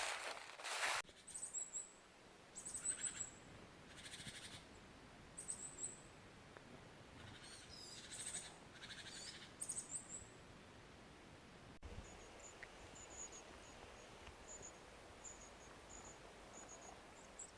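Small songbird giving short, thin, very high chirps, with a few crunches and rustles of dry autumn leaves underfoot. The leaf crunching is loudest in the first second. About two-thirds of the way in, the chirping changes to a fainter, quicker run of tiny high notes.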